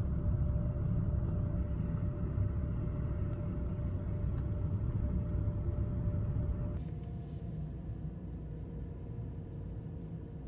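Steady low rumble of a motor vehicle with a faint steady whine above it. About two-thirds of the way in it cuts abruptly to a slightly quieter rumble with a somewhat lower whine.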